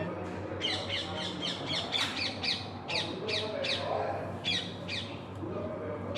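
Birds calling in quick runs of short, harsh squawks, about three a second, with a short pause about two-thirds of the way through before the calls resume.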